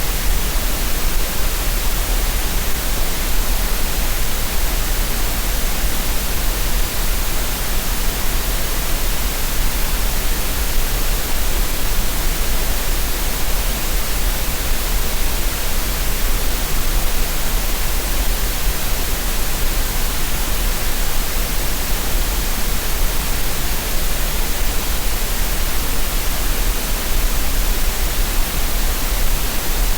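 Steady green noise: an even, unchanging hiss spread across the whole range, with a strong deep rumble at the very bottom.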